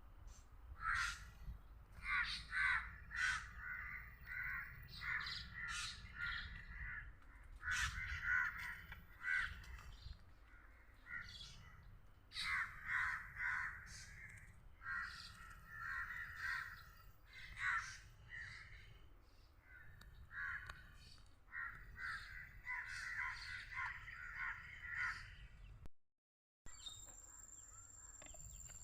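Harsh, chattering bird calls in repeated rapid bursts with short gaps between. The calls break off suddenly near the end.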